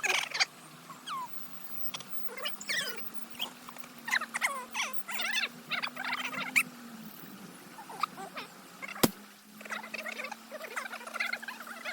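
Birds chirping and calling in many short, quick squeaks that rise and fall in pitch, over a steady low hum. One sharp crack comes about nine seconds in.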